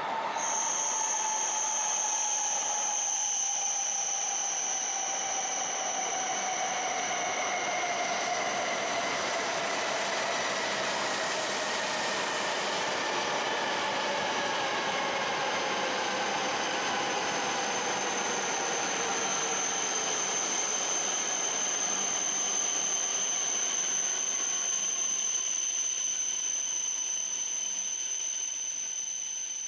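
E7 series Shinkansen bullet train pulling into the station and braking past. Its motors give several whining tones that fall slowly in pitch as it slows, over the rumble of the train. A steady high-pitched tone sounds above it throughout.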